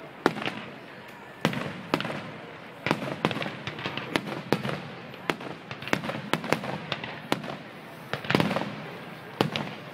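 Aerial fireworks display going off: an irregular, rapid string of sharp bangs and pops, several a second at times, with a few heavier booms that rumble on briefly.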